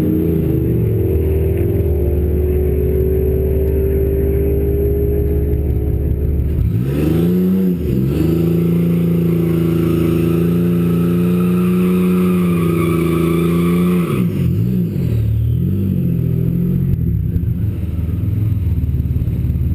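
Turbocharged 4.0-litre V6 of a 2007 Mustang making a drag strip pass. The engine runs steadily at first, dips and then climbs sharply in pitch about seven seconds in, and holds a high note for about six seconds. The note then falls and wavers.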